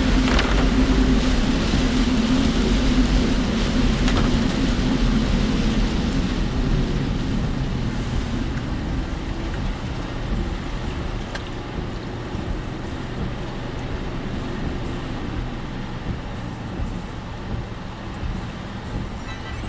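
Car engine and tyre road noise heard from inside the cabin while driving: a steady rumble and hiss that grows gradually quieter over the first ten seconds or so.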